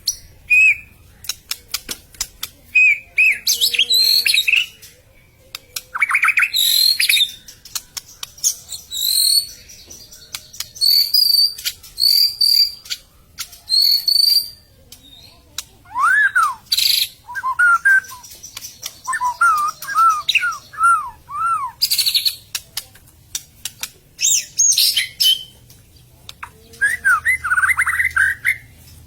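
White-rumped shama (murai batu) singing loudly and agitatedly in short bursts. The phrases mix clear whistles, sharp rattling clicks and quick repeated chirps, with brief gaps between them.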